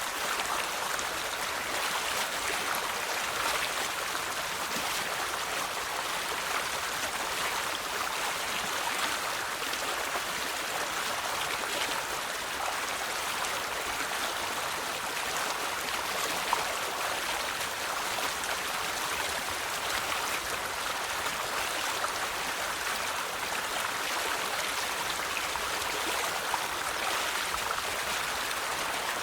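River water flowing steadily over stones, an even rushing with small splashes and trickles through it.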